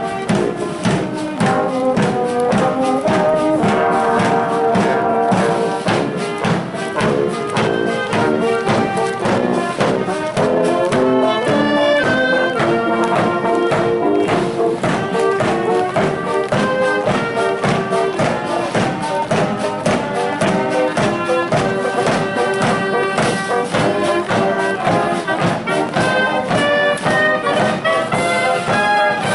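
Military band playing a march: brass carrying the tune over a steady drum beat.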